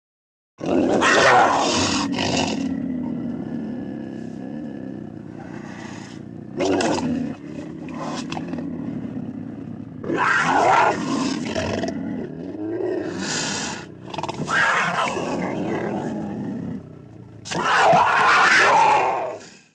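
Puma (cougar) growling: a low continuous rumble broken by about six loud, harsh snarls, the strongest near the start and near the end.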